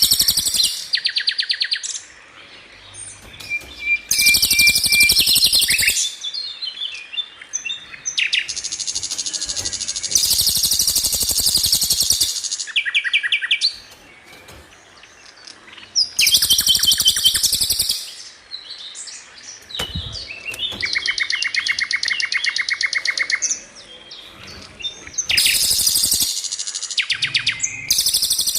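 Songbird training song (masteran): bursts of fast, high rolling trills and rapid-fire repeated notes, each lasting about two to four seconds, with short quieter gaps between them.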